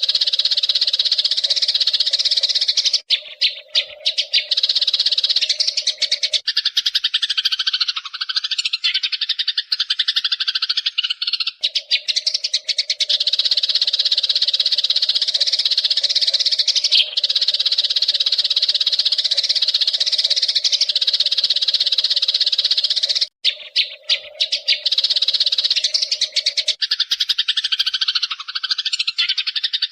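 Eurasian tree sparrows chattering rapidly and without pause, a dense high-pitched twittering. It is a looped recording: the same passages come round again about twenty seconds in.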